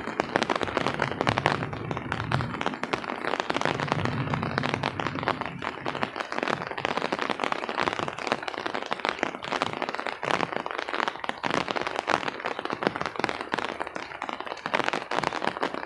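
Rain falling, its drops striking close to the microphone as a dense, irregular crackle of small taps.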